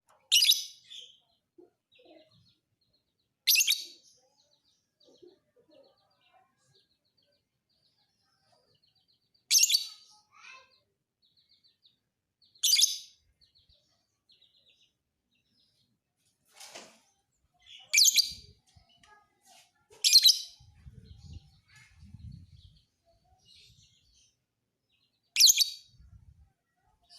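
Lovebird giving short, high-pitched chirping calls, about seven of them, spaced a few seconds apart at irregular intervals.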